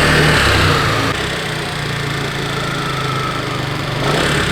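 SYM Attila scooter's single-cylinder engine running again after a broken wire was rejoined: slightly revved at first, dropping to a steady idle about a second in, and picking up a little near the end.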